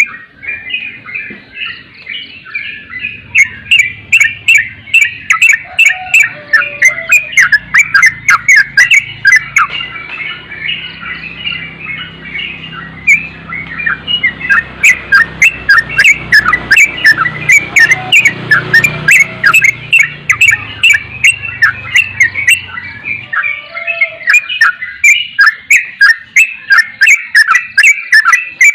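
Yellow-vented bulbul (trucukan) chirping in a fast, continuous string of short, sharp notes, several a second. A faint low hum sits underneath for most of the stretch.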